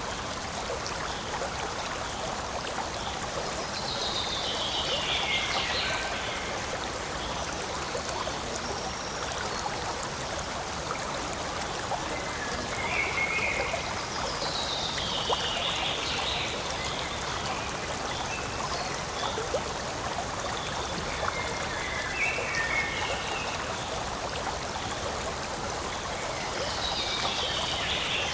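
Forest stream flowing steadily, with a call that falls in pitch heard three times over the water, plus a few short chirps.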